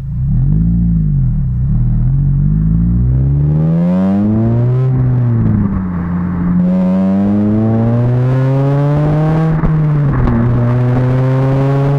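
Honda Civic Type R FN2's 2.0-litre four-cylinder i-VTEC engine through a Magnaflow exhaust: a quick rev just after the start, then it accelerates with its pitch climbing, falling at an upshift about five seconds in, climbing again and falling at another shift near ten seconds.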